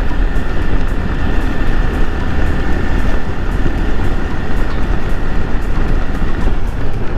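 Steady ride noise of a Yamaha R15 V3 motorcycle at highway speed: a 155 cc single-cylinder engine running under a loud, even rumble of wind and road on the camera microphone.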